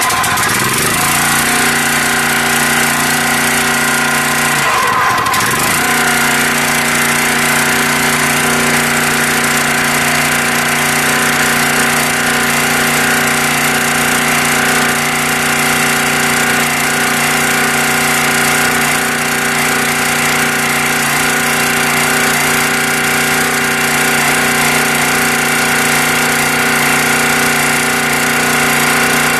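Small gas engine on a new log splitter running steadily just after its first start. The engine speed sags briefly about five seconds in, then steadies.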